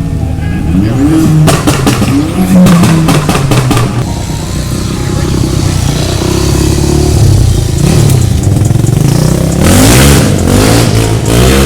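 Car engines revving hard, the pitch climbing and dropping several times. A run of sharp crackles comes about two seconds in, and a loud rising rev near the end.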